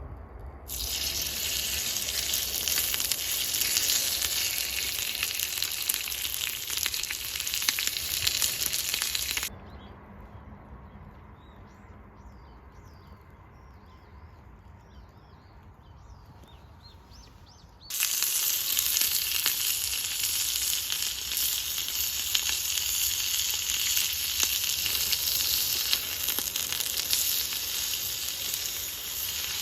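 Food sizzling as it fries over a fire, a loud steady crackling hiss. It stops abruptly about a third of the way in, leaving a quieter stretch with faint chirps, then comes back just as abruptly after about eight seconds.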